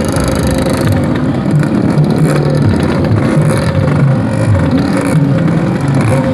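Yamaha RX-King two-stroke motorcycle engine running, with its pitch shifting up and down.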